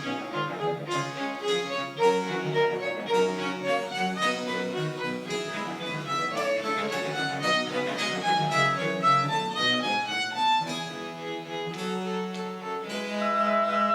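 French Baroque chamber music played by a small string ensemble: a quick melody of many short notes over sustained lower notes.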